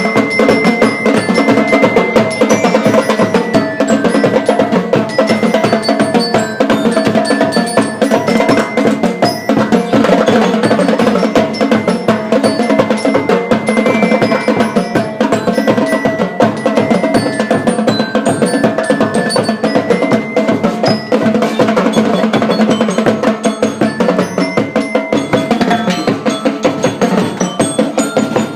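School marching band playing: drums beat a fast, steady rhythm under a melody on ringing metal bell lyres.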